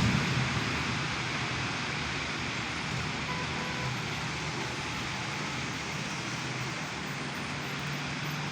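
Heavy rain falling in a steady hiss, with the tail of a thunder rumble dying away in the first second and a faint low drone underneath.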